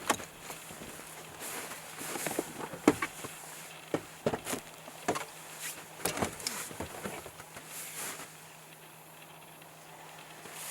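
Someone moving about and handling gear, with irregular clicks, knocks and rustling over a faint steady hum. The knocks thin out near the end.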